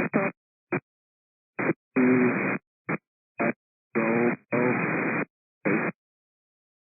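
Air traffic control radio: a series of short, abruptly gated bursts of a voice over a narrow-band aviation radio channel, chopped in and out by the squelch and too broken up to make out words.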